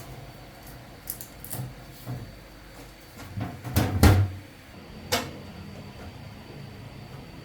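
Metal parts and tools knocked and set down while being handled: scattered clanks, with a cluster building to the loudest knock about four seconds in and one more a second later.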